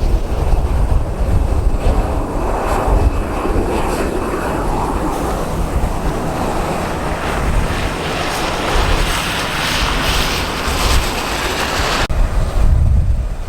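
Jet airliner's engines passing, building from about two seconds in to a loud hiss and whine, then cutting off suddenly near the end. Gusty wind rumbles on the microphone at the start and again after the cutoff.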